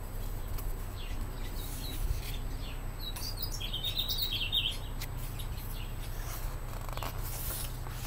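A small bird chirping a quick run of high notes for about a second and a half, a few seconds in, with soft rustling of picture-book pages being turned.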